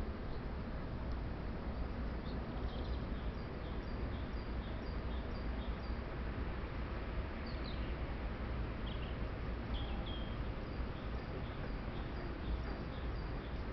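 Small birds chirping: runs of short high notes repeated several times a second, with a few brief downward-slurred calls, over a steady background rumble and hiss.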